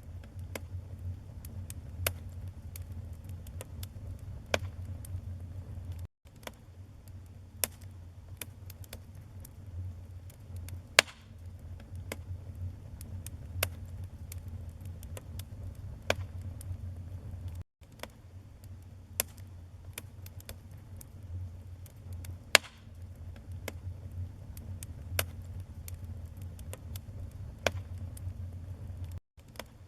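Wood fire burning in a fireplace: a steady low rumble of flame with irregular sharp crackles and pops from the burning wood. The sound cuts out for an instant three times.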